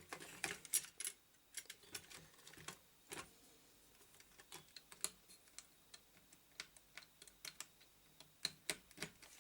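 Irregular small clicks and taps as a CPU cooler is fitted back onto a Pentium 4 motherboard by hand, without being screwed down.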